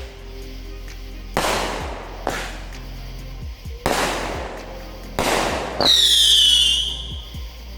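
A 15-shot 200-gram World Class American Muscle consumer firework cake firing: about four sharp shots bursting a second or so apart, and a falling whistle near the end. Background music plays underneath.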